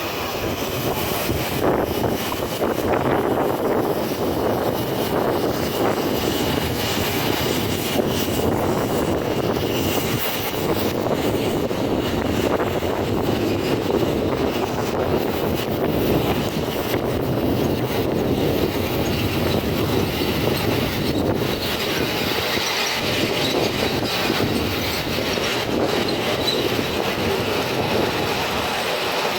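A miniature railway train running along its track: a steady rumble of wheels on rail, with scattered clicks.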